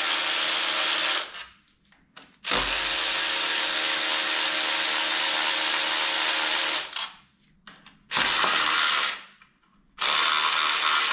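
Power driver running in runs of a few seconds with short stops, spinning out the 10 mm bolts that hold the oil filter housing on a Ford Focus ST225 / Volvo five-cylinder engine.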